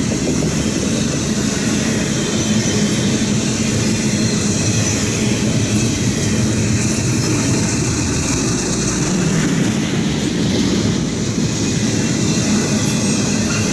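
Intermodal freight train cars rolling past: steady noise of steel wheels on the rails, holding level.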